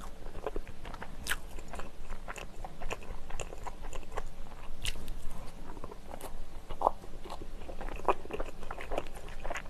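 Close-miked chewing of soft bread dipped in milk, a steady run of many small mouth clicks.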